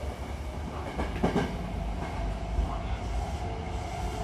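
Hankyu commuter train running, heard from inside the car by the doors: a steady low rumble, with a few knocks from the wheels and car body about a second in.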